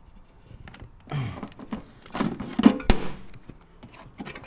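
Plastic handling clatter and a sharp knock, in two bursts about a second in and around three seconds in, as the Ozito PXC 18V battery packs are taken out of the mower.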